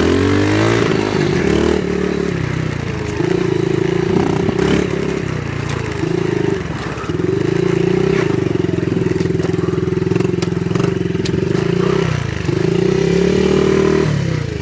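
Small off-road vehicle engine running under throttle: it climbs in pitch at the start, then holds steady revs, with brief drops about three, six and twelve seconds in, and eases off near the end.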